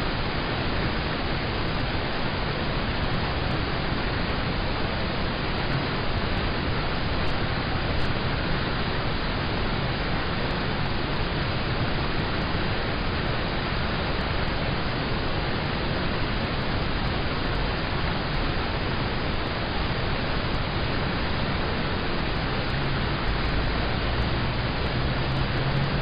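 Steady, dense rain on a car's roof and windows heard from inside the cabin, an even hiss with no separate drops standing out.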